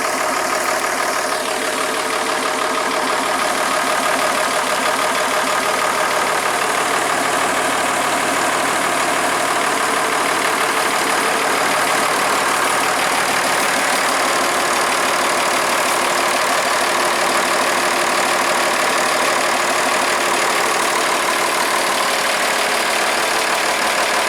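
Farmall 806 tractor engine running steadily, running cleanly after sitting a long time and a fresh oil change.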